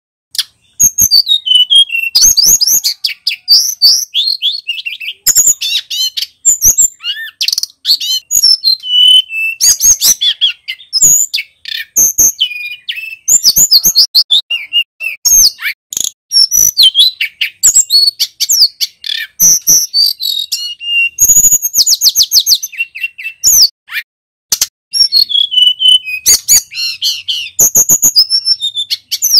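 Male tledekan gunung singing a long, loud run of rapid, high-pitched warbled phrases, quick trills and sweeping whistles, with only brief pauses between bursts.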